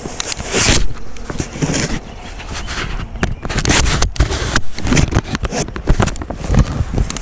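Irregular scraping, rubbing and crackling of a handheld camera being gripped and turned, over a low wind rumble on the microphone.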